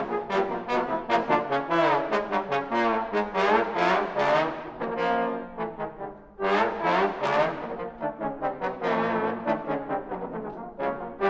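Trombone ensemble playing a passage of short, accented notes. Near the middle the sound drops away briefly, then the group comes back in loudly.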